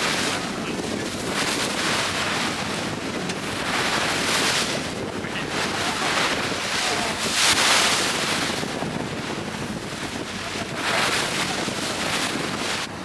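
Wind buffeting the microphone aboard a tour boat in rough, high-wave sea, with sea water rushing and splashing against the boat in surges every few seconds.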